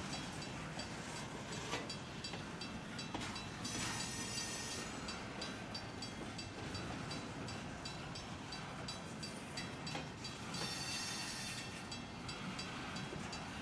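Double-stack intermodal freight train's well cars rolling past: a steady rumble of steel wheels on the rails, with two brief spells of high hiss. A grade-crossing bell dings in a fast, even rhythm behind it.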